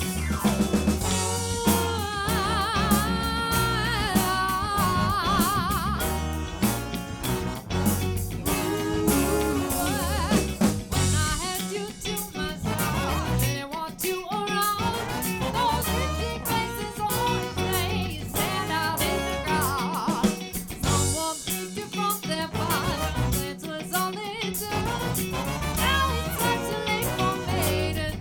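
Live band playing with a steady beat on drum kit and bass, guitar, and a singer's voice wavering with vibrato over it.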